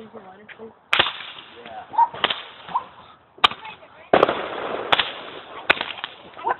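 Consumer fireworks going off: a string of sharp bangs, about five spread a second or so apart, with a dense burst of crackling around four seconds in.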